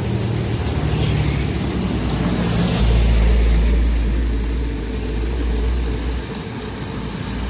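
Heavy earthmoving machinery running: a steady low engine rumble that grows deeper and louder for about three seconds in the middle.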